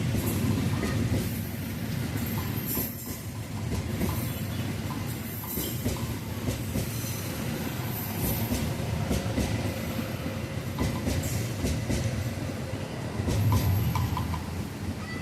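A train passing on the track: a steady low rumble with wheels clacking over rail joints and some high metallic wheel squeal, swelling again near the end.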